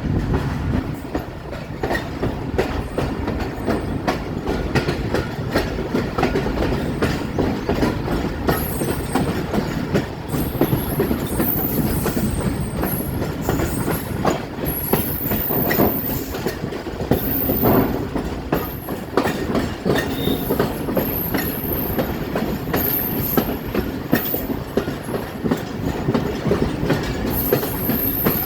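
Train running on the rails, its wheels clattering in a dense run of knocks over a steady rumble. Thin, very high wheel squeals come and go from about a third of the way in.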